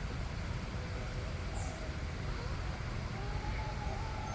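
Steady low outdoor background rumble. A faint wavering tone sits over it in the second half.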